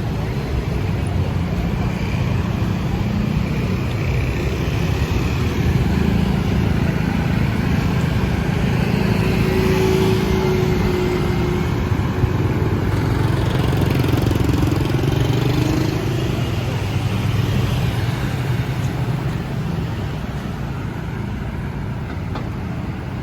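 City street traffic, with motorbikes and cars passing in a steady rumble.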